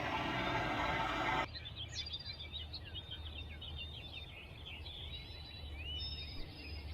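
A loud steady rushing noise cuts off abruptly about a second and a half in, leaving many small birds chirping over a faint low hum.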